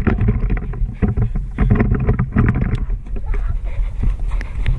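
SSR 125 pit bike's single-cylinder four-stroke engine running loud and choppy under throttle, with knocks and rumble on the microphone.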